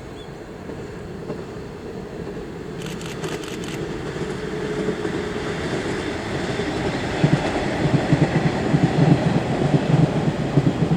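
A KiHa 110 series diesel railcar train running on the rails, growing steadily louder. From about seven seconds in, its wheels clatter rapidly over the rail joints.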